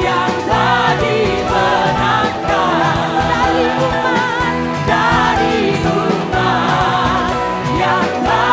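A live worship band playing a praise song while singers' voices carry the melody.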